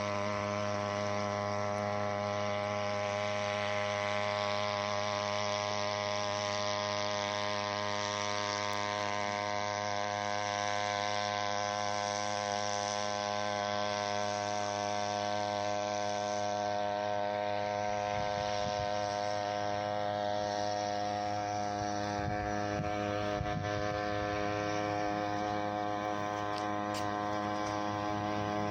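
Small 3 hp Chinese outboard motor running at a steady speed, an even buzzing drone that does not change.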